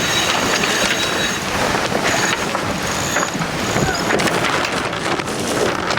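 Wind buffeting the microphone and water rushing past the hull of a sailing catamaran under way, a steady loud rush with a few scattered knocks.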